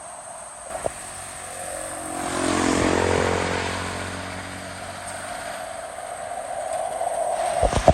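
A truck's engine passes by, swelling to its loudest about three seconds in and then fading away. There are a couple of sharp knocks, one just under a second in and one near the end.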